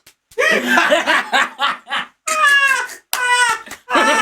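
A person's voice talking and laughing, ending in two long vocal cries that fall in pitch.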